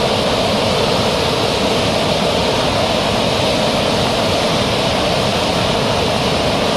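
Steady rush of a large waterfall and its stream, a constant even roar of falling water.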